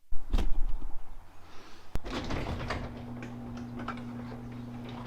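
A car door shuts with a thud, followed by a few small knocks and a click. About two seconds in, a steady low electric hum comes on, the BMW 435i's systems waking with the ignition just before a cold start.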